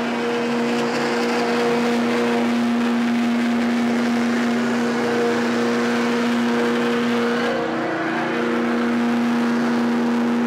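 Diesel truck engine held at high, steady revs, a strong even drone with a rushing noise over it. The note sags briefly about eight seconds in, then holds again.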